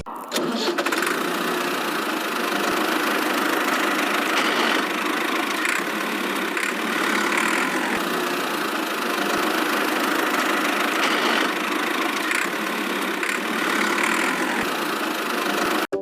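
Small motor of a miniature DIY construction vehicle running steadily with a busy mechanical whirr, then cutting off abruptly near the end.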